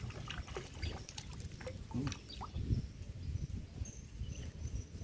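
Wind rumbling and buffeting on the microphone, with scattered short, high chirps and squeaks above it.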